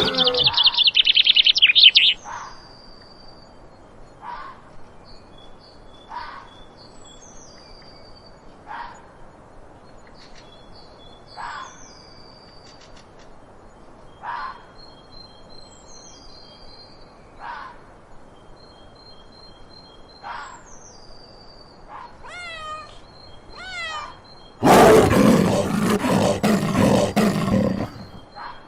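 Birds calling: a fast high trill, then short high calls repeating every two to three seconds. Near the end a loud, rough, noisy sound lasts about three seconds.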